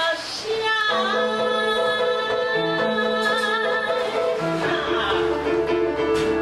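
Live jazz ballad music: a long held note from about a second in to about four seconds, over a lower accompaniment of shorter stepping notes.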